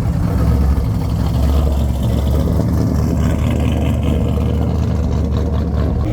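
A vehicle engine running loud with a steady low rumble.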